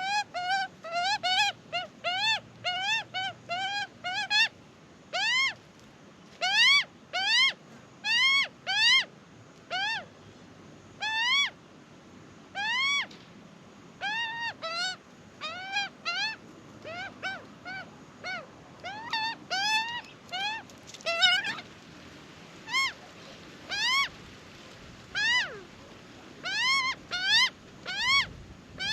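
Juvenile Australian magpie begging for food: a long series of short, upward-sliding squawks, repeated two to three times a second in bouts with brief pauses.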